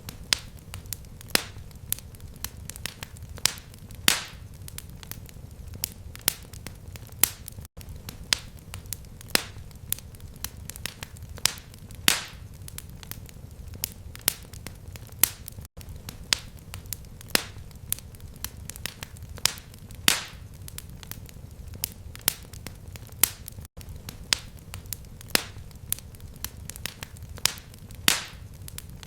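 Fireplace fire crackling: irregular sharp pops, a few a second, over a steady low rumble. The crackle is a short loop that repeats about every eight seconds, with a brief dropout at each seam.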